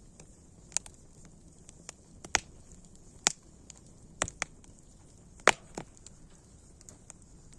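Wood fire crackling: scattered sharp pops at irregular intervals over a soft steady hiss, the loudest pop about five and a half seconds in.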